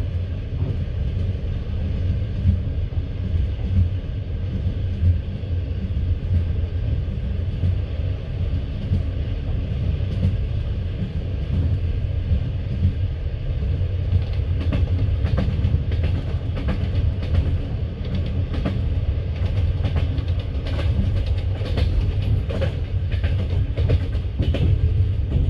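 Passenger train carriage running on the rails, heard from inside the carriage: a steady low rumble of wheels, with a run of irregular sharp clicks from about halfway through as the wheels pass over rail joints.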